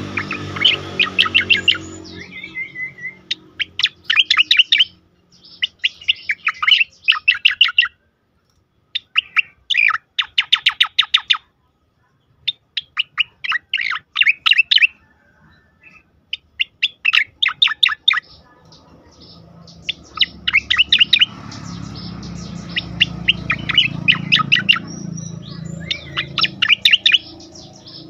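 Cucak koreng giving its rapid 'tembakan' call: bursts of fast, sharp repeated notes about a second long, one after another with short pauses. A low rumble sits beneath the calls at the start and again after the middle.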